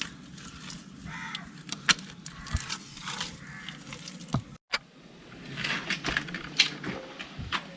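Scattered soft knocks, clicks and scrapes of bricks being set by hand into sticky wet clay mud.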